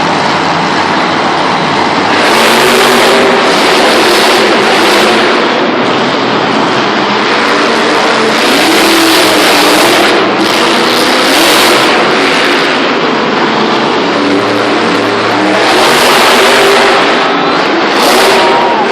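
Monster truck engines revving very loud, the engine noise swelling and easing in surges several times.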